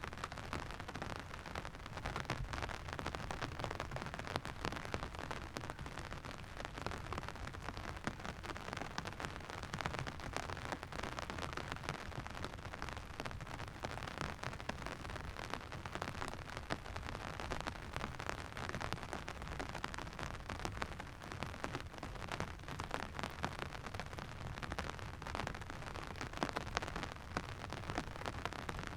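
Steady rain falling and pattering on surfaces, with a dense crackle of drops.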